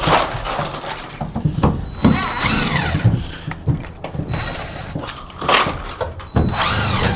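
A cordless drill backing screws out of trailer wall panels. Its motor whine rises and falls in pitch as the trigger is squeezed and eased, in two main runs, with rattling and knocks between them.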